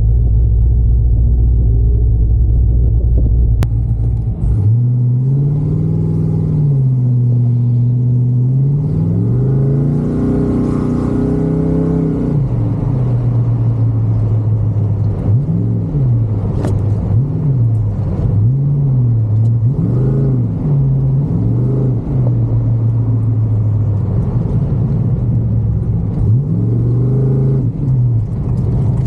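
Car engine idling, then pulling away about four seconds in and revving up and down over and over as the car accelerates and lifts through an autocross course.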